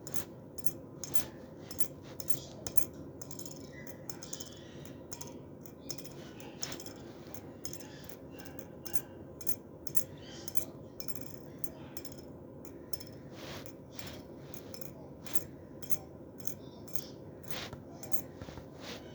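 Male cicada calling with a run of sharp, irregular clicks, a few to several a second.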